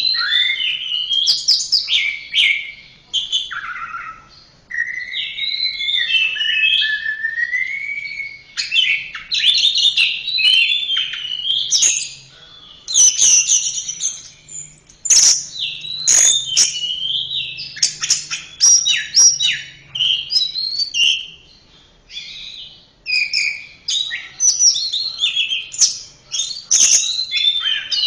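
Orange-headed thrush (anis merah) singing: a continuous run of varied whistled phrases, rapid note trills and chatter, with notes gliding up and down, broken by short pauses.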